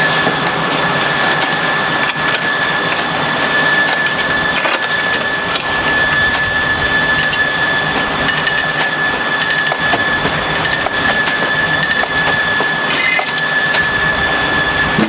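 Sawmill running: a loud, steady mechanical noise with a constant high whine and scattered clicks and knocks.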